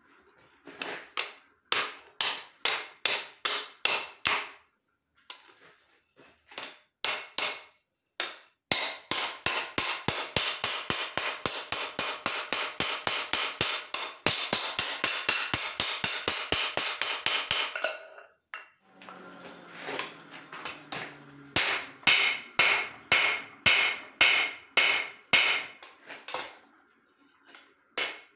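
Hand hammer striking steel on an anvil in runs of ringing blows, with a fast, even run of about four strikes a second lasting some nine seconds in the middle.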